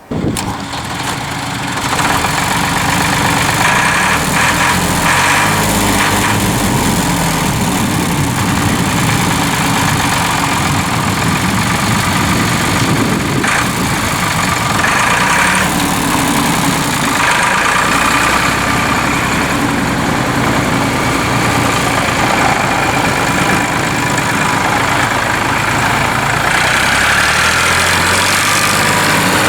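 A 1995 Ford 3930 tractor's three-cylinder diesel engine comes up over the first couple of seconds and then idles steadily.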